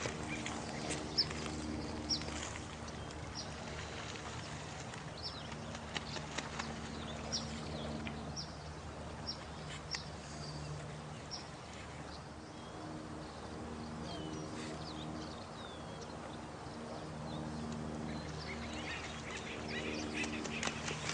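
Night nature ambience: an even hiss of running water under a low droning animal call that comes and goes, with short high falling chirps about once a second and scattered clicks.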